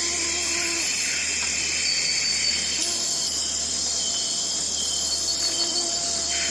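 Amazon rainforest ambience: a dense, steady chorus of insects, with several short held calls at different pitches from other animals scattered through it.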